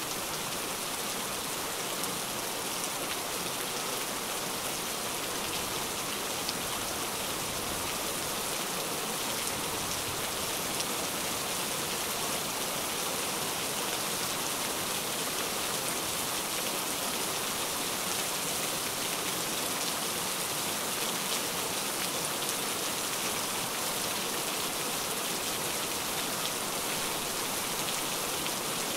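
Steady rain falling: an even, constant hiss of many drops with faint scattered drop ticks, unchanging throughout.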